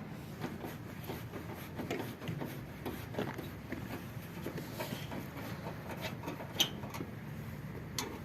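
Hand work on washing-machine parts: rubbing and scraping with scattered light clicks and knocks, and one sharper click about six and a half seconds in.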